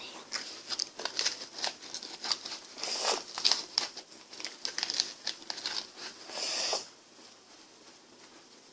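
Ice cream packaging crinkling and tearing as it is handled and opened up close, a run of sharp crackles. The crackling stops about seven seconds in.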